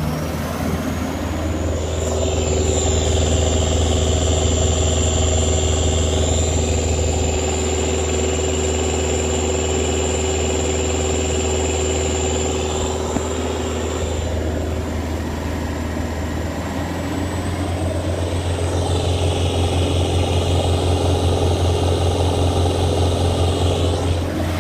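Toyota Land Cruiser BJ40's turbo diesel engine running steadily, with a high steady whistle over it. The engine grows louder for several seconds about two seconds in, eases off, then grows louder again from around eighteen seconds.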